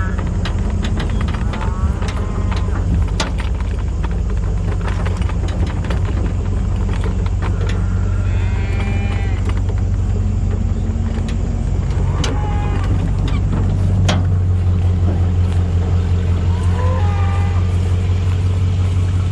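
A motor vehicle's engine runs steadily throughout, its hum changing about 14 seconds in. Over it, cattle give several short calls, and there are scattered clicks and knocks.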